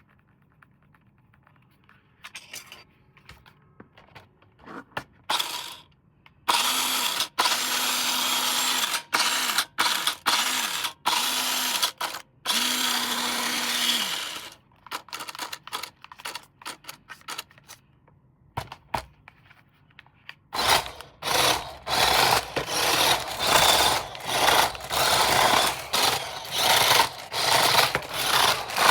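A small motor-driven mechanism running in bursts: a few clicks at first, then stretches of motor and gear noise with a steady low hum and short breaks, and near the end rapid repeated pulses.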